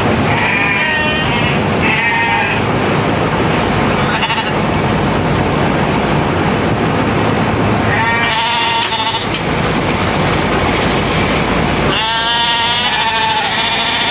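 Sheep bleating about four times, the longest bleat near the end, over a steady mechanical hum from electric shearing clippers.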